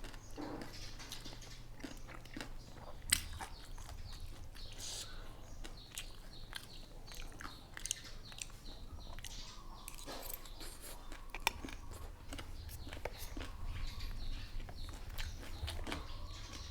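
A person chewing and biting a mouthful of spicy seafood papaya salad (tam pa talay), with irregular crunches and small mouth clicks, one sharper crunch about three seconds in and another past the middle.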